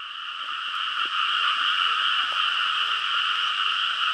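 Dense chorus of frogs calling together: a steady, unbroken drone that swells during the first second.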